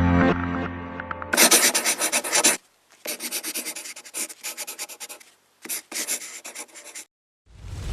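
Rapid back-and-forth rubbing strokes on a hard surface, about seven or eight a second, in three runs separated by short pauses, followed by a short loud burst near the end.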